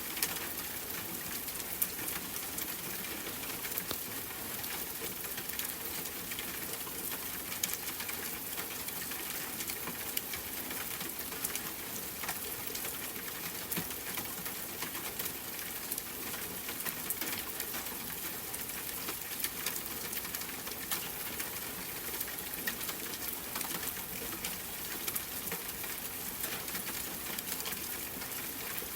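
Steady rain pattering: an even hiss dotted with many small drop ticks.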